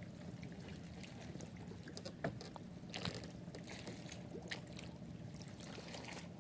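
Faint water lapping and trickling against a small fishing boat's hull, with a few light knocks about two and three seconds in.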